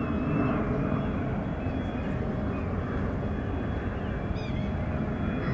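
Steady rumble of a Boeing 777-300ER's GE90 jet engines as the airliner lands, with a few faint high chirps over it.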